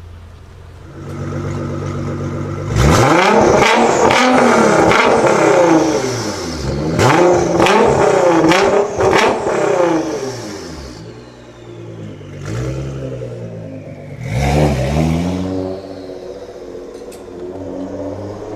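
A supercar's engine revving hard several times. The pitch climbs and falls with each rev, and sharp cracks come through during the loudest revs. It then settles to a lower, steadier running note near the end.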